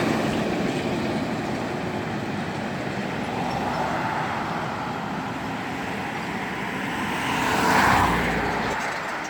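Road traffic noise, with one vehicle passing close about eight seconds in: the noise swells, peaks and fades.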